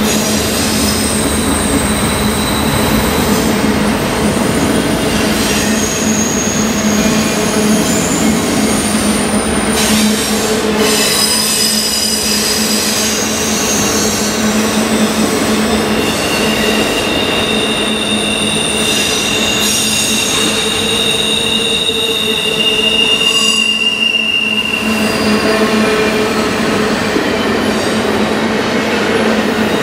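Intermodal freight cars rolling past with a steady rumble, their wheels squealing on the rails in high tones that come and go, loudest about three-quarters of the way through.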